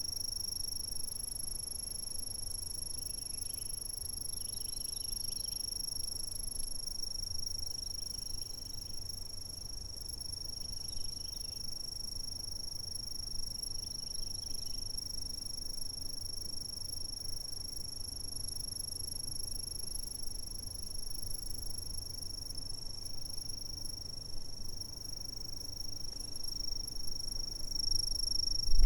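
Insects calling in a continuous, steady, high-pitched trill, with fainter short chirps now and then and a low background rumble.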